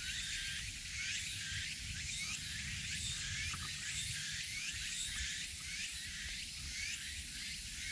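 Forest ambience: a steady high hiss with a short rising chirp repeating about twice a second, over a low rumble.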